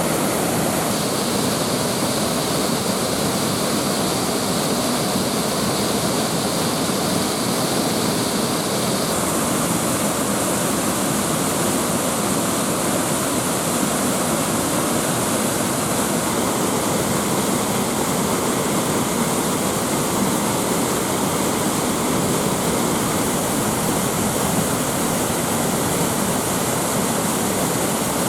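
Waterfall with fast-running water pouring over it, a steady, loud rush of water.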